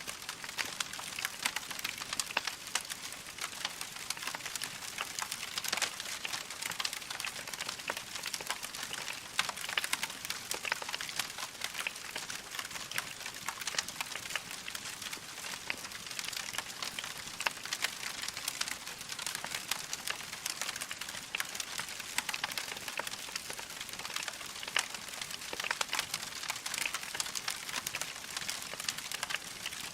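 Log fire crackling steadily: a dense patter of small pops and snaps over a soft hiss.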